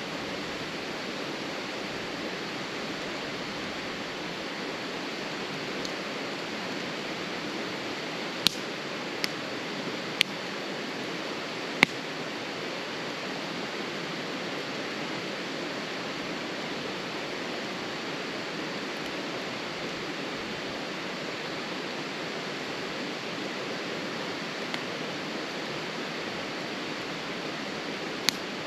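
Wood campfire crackling: a handful of sharp, isolated pops over a steady rushing hiss. The loudest pop comes about twelve seconds in.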